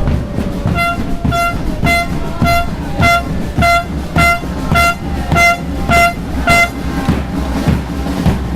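Car horn honking about eleven short toots of one pitch in a steady rhythm, roughly two every second, over a loud street din with repeated low thumps.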